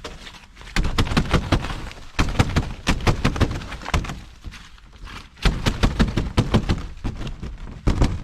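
A chunk of snow and ice being broken up: rapid, irregular crunching cracks and knocks in three bursts.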